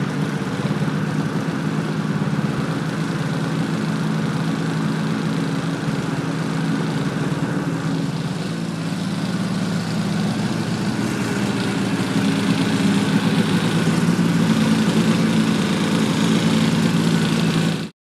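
A 2001 Polaris XC SP 600 snowmobile's two-stroke twin engine idling steadily through its exhaust, getting a little louder about two-thirds of the way in.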